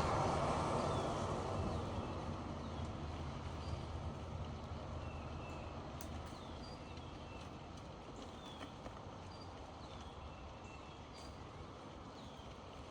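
A passing vehicle's noise fading away as it recedes, with small birds chirping throughout.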